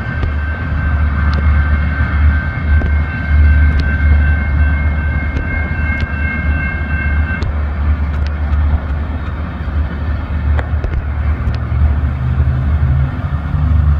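Norfolk Southern freight train's tank cars rolling away along the track: a heavy low rumble with scattered sharp clicks from the wheels. Over it a grade-crossing warning bell rings and cuts off suddenly about seven seconds in. Near the end a road vehicle's engine comes in.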